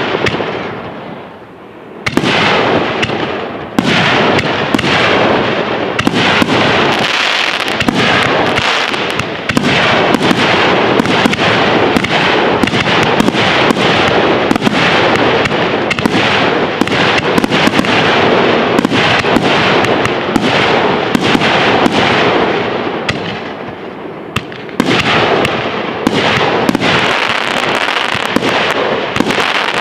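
Fireworks display: a dense, nearly continuous barrage of bangs and crackles from exploding shells. There is a brief dip about a second in and another near the end before the barrage picks up again.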